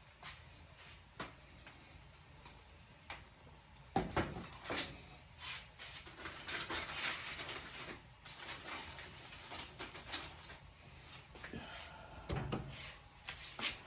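Kitchen handling sounds: scattered clicks and knocks, a heavier thud about four seconds in, then a few seconds of rustling.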